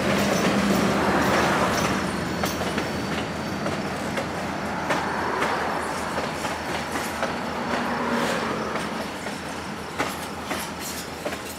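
Cars of a Canadian Pacific track-testing train rolling past, steel wheels clicking over rail joints. The rolling fades as the last car draws away, leaving a few sharp clicks near the end.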